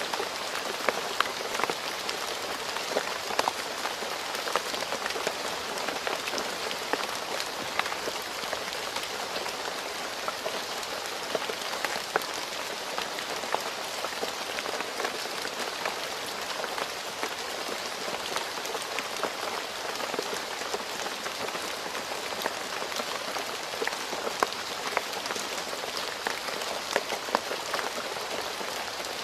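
Steady rain falling on a road surface: a continuous hiss dotted with many sharp individual drop splashes.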